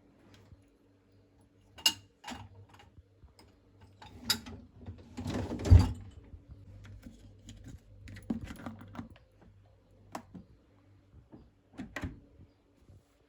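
Irregular light clicks, taps and knocks of household objects being handled, with one louder thump about six seconds in, over a faint steady low hum.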